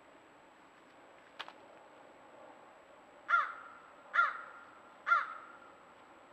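A crow cawing three times at an even pace, a little under a second apart, after a single sharp click.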